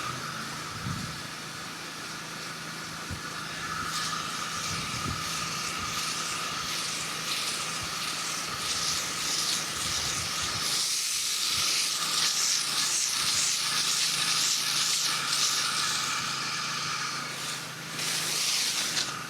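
Pressure washer spray hissing steadily, with the machine's motor humming low and even underneath.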